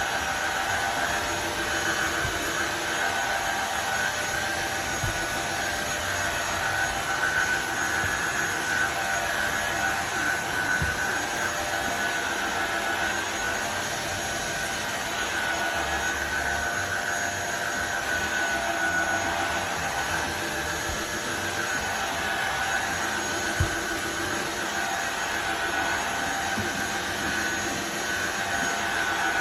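Tineco iFloor 5 Steam wet-dry floor cleaner running, its suction motor giving a steady whine over a constant rush of air.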